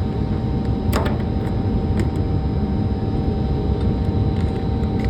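Steady low engine rumble, like a diesel truck idling, with a sharp click about a second in.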